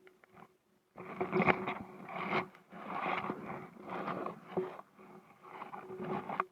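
Kayak paddle strokes in the water, a swishing rush about once a second, starting about a second in.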